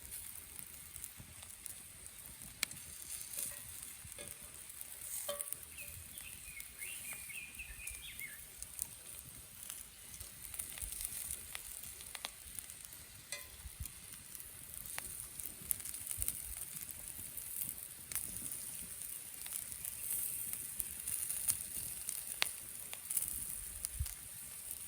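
Meat sizzling in a Nanbu cast-iron grill pan over a campfire: a steady high hiss with scattered sharp pops.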